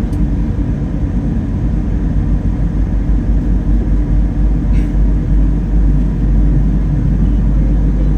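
Boeing 777-300ER's GE90 turbofan engines running at high power, heard from inside the cabin as a steady loud low roar with a rumble, building slightly.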